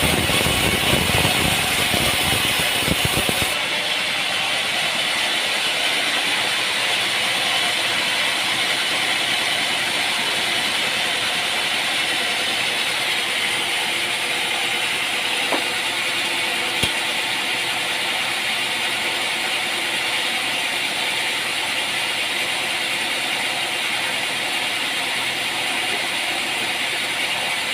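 Sawmill machinery running steadily. About three and a half seconds in the sound changes abruptly from a louder, fuller running noise to a thinner, steady hiss-like whir, with a single sharp click near the middle.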